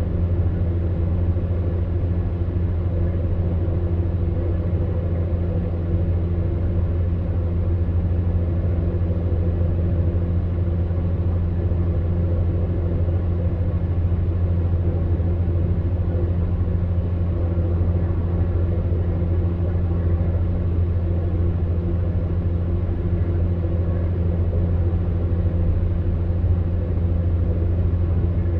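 Electric fan heater running steadily: a constant low hum under an even rush of blown air.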